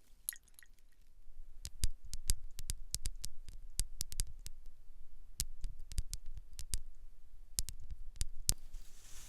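Close-miked ASMR handling sounds: a run of sharp, irregular clicks and taps, about three or four a second, starting a second and a half in. A soft brushing hiss takes over near the end.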